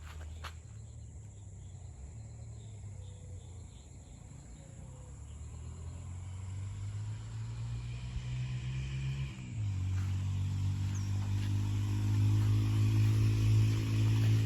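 A motor vehicle's engine running steadily and growing louder as it approaches, with a shift in its pitch a little past the middle. A few footsteps are heard at the very start.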